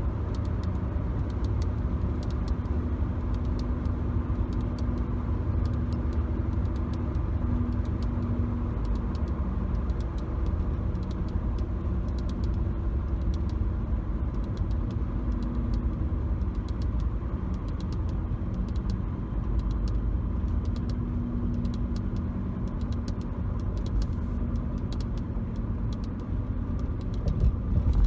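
Steady low road and engine rumble inside a moving car's cabin, picked up by a phone. Light, irregular fingernail taps and scratches on the car's interior trim sound throughout.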